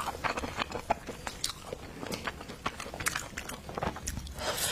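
Close-miked eating of king crab meat: irregular wet chewing, biting and mouth smacks.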